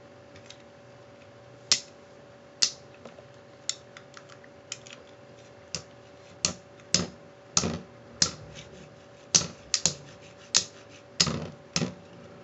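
Pirate Kraken and Lightning L-Drago Beyblade tops spinning in a stadium and striking each other: irregular sharp clacks, sparse at first and coming faster in the second half, over a faint steady hum.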